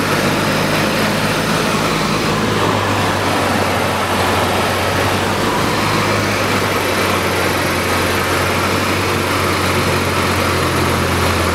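Cessna 152's four-cylinder Lycoming piston engine and propeller running steadily at constant power, a loud even drone with a low hum and a dense rushing noise over it.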